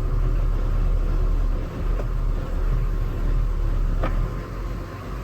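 Sailboat's inboard diesel engine running with a steady low rumble, on fuel fouled with water and algae that leaves it prone to stalling.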